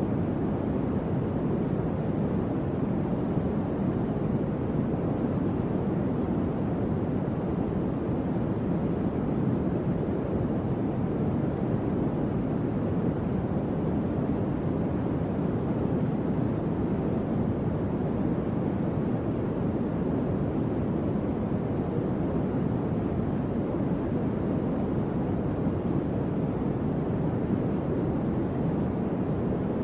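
Electric fan running steadily: an even, low whooshing rush of moving air with no changes.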